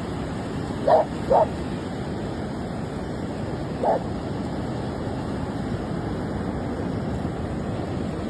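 A dog barks three times, two quick barks about a second in and a single one near four seconds, over the steady rush of surf.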